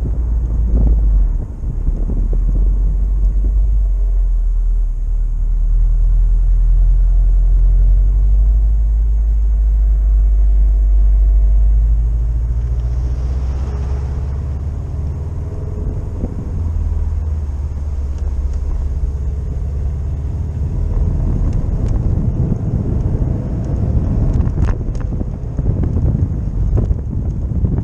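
A car on the move, its engine and road noise making a steady low rumble; over the last several seconds a rougher crackling noise comes in.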